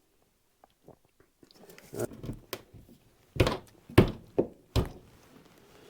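A series of about six irregular wooden knocks and thunks, the loudest in the middle, as lumber is handled and fitted while framing a window opening.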